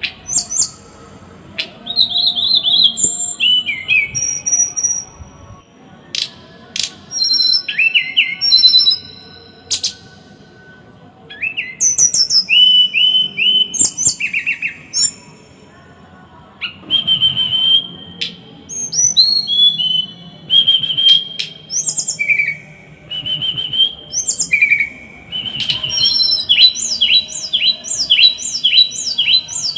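A small songbird singing in fast, dense bursts of sharp, harsh whistled and chattering notes, phrases of a second or two broken by short pauses. Near the end it runs into a quick string of repeated falling notes.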